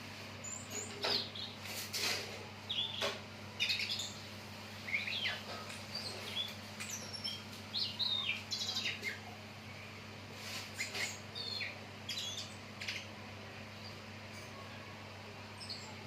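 A ledekan laut songbird chirping and calling in short, varied, rapidly gliding phrases, with pauses between bursts and a few sharp clicks. A steady low electrical hum runs underneath.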